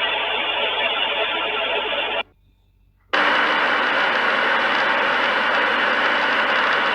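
Steady road and driving noise of a car in motion, recorded from inside the vehicle. It drops out about two seconds in and returns about a second later as a brighter, hissier steady noise.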